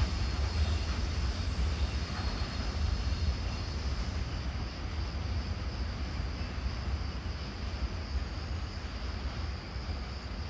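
Train rumbling as it moves away, the low rumble slowly fading.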